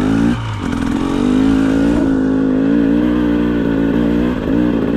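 Single-cylinder two-stroke engine of a 2025 GasGas EC 300 dirt bike pulling at low, fairly steady revs as it is lugged up a steep trail in tractor fashion, the throttle easing off briefly just after the start.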